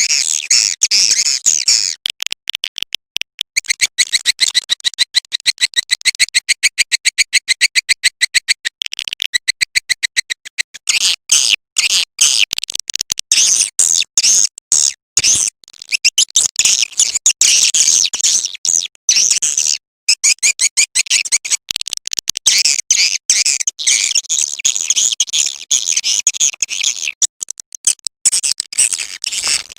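Swiftlet calling-sound lure track: high, rapid twittering chirps of edible-nest swiftlets, at first a fast even run of short chirps, then a denser, overlapping chatter from about eleven seconds in.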